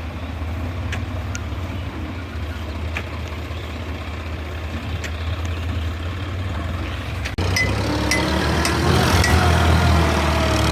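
A heavy vehicle's engine idling with a steady low rumble. About seven seconds in it cuts abruptly to a louder stretch where short, high beeps repeat roughly twice a second over the engine.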